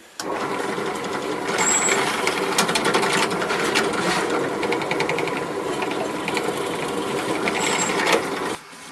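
A small electric power tool's motor running steadily, with irregular scratchy noise over it. It starts abruptly just after the beginning and stops abruptly near the end.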